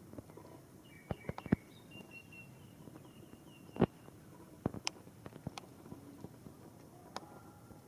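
Scattered drops of rainwater falling irregularly onto hard surfaces, each a sharp separate drip, over a faint hiss. A bird chirps faintly in short repeated notes early on.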